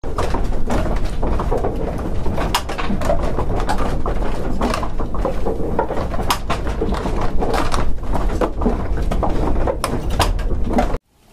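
Work-site ambience sound effect: irregular knocks and clatter of tools over a steady low rumble, cutting off abruptly near the end.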